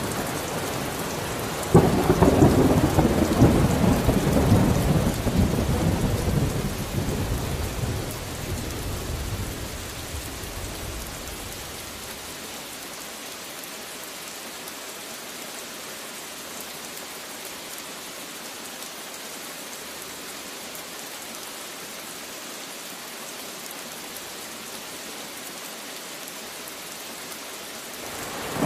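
Steady rain falling, with a thunderclap about two seconds in that rumbles on and slowly fades over about ten seconds. Another roll of thunder starts to build near the end.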